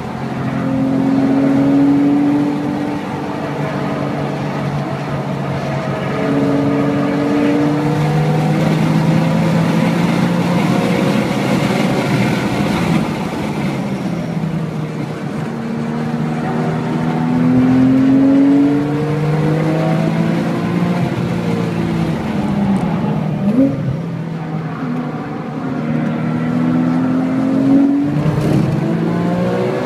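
Porsche 997.1 GT3's 3.6-litre naturally aspirated flat-six heard from inside the cabin under hard acceleration on track. It climbs in pitch through each gear several times and drops back at every shift.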